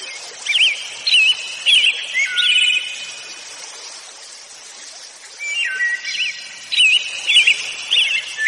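Birds singing in two bouts of short, repeated whistled phrases that glide up and down, over a steady background hiss.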